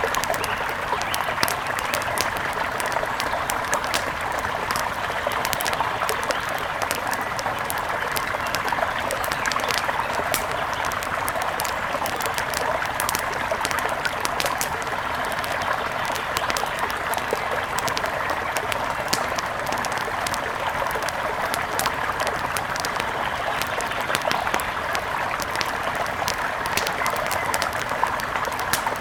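River water rushing steadily, with frequent small sharp crackles and pops from a wood fire over it.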